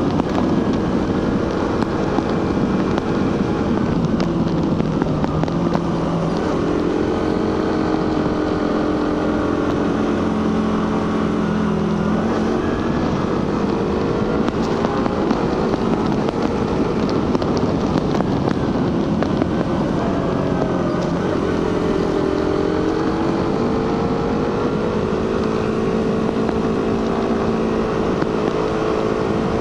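Suzuki GSX-R150's single-cylinder 150cc engine and stock exhaust running under way, its pitch stepping and gliding up and down with throttle and gear changes. Wind rushes over the microphone throughout.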